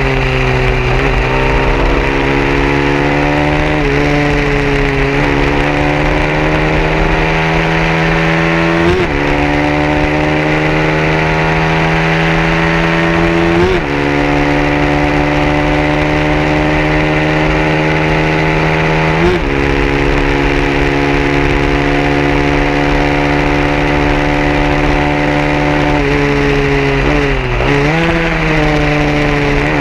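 A 150cc racing motorcycle engine running hard. Its pitch climbs steadily through the revs and breaks off abruptly every few seconds as the gears change.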